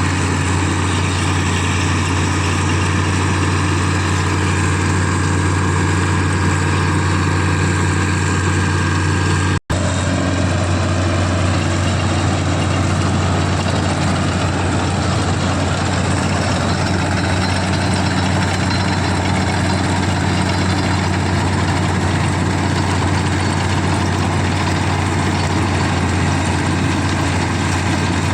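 CLAAS combine harvester's diesel engine running steadily at a constant speed, with a deep, even hum. The sound breaks off for an instant about ten seconds in.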